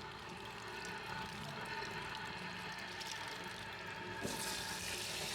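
Running water hissing on suddenly about four seconds in, over a steady low background.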